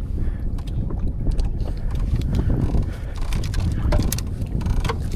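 Wind buffeting the microphone as a steady, uneven low rumble, with scattered small clicks and knocks from handling on the boat.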